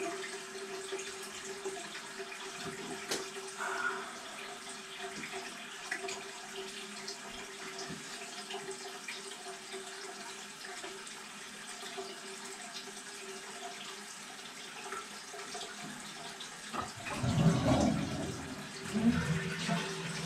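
Water running steadily into a toilet tank: a constant hiss with a faint steady tone. About three-quarters of the way through, louder low knocking and handling noise joins it.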